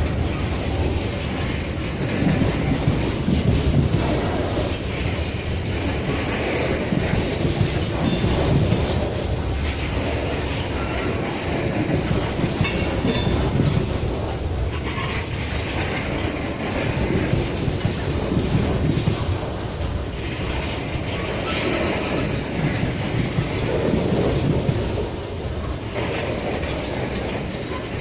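Crude oil train's railroad cars rolling past steadily, wheels clacking over the rail joints, with a brief high squeal of the wheels about halfway through.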